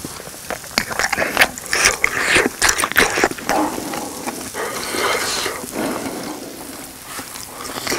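Close-miked chewing of grilled grilling cheese: a quick run of sharp clicks and squeaks from the rubbery cheese for the first few seconds, then softer chewing.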